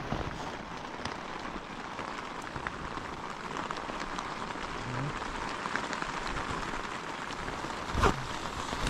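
Steady rain falling on a tent and on wet grass: an even hiss with scattered drop ticks. A single sharp knock comes about eight seconds in.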